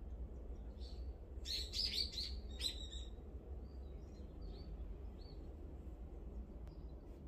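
A small bird chirping: a quick run of short, high chirps starting about a second in, then a few fainter ones, over a low steady rumble.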